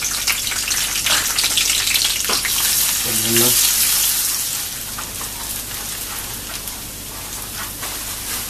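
Julienned ginger and chopped garlic sizzling in hot oil in a kadai, stirred with a wooden spatula. The sizzle swells about three seconds in, then settles to a lower, steady frying hiss.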